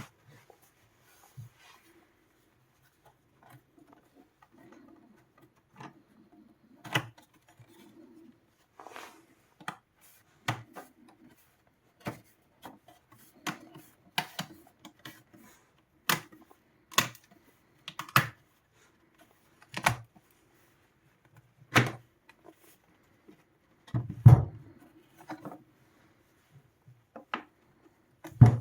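Irregular clicks, taps and knocks of tools and parts being handled, with a louder thump about 24 seconds in, over a faint steady hum.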